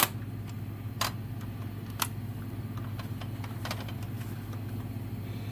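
A few small, sharp clicks and taps, about one a second at first, from a die-cast model truck being handled, over a steady low hum.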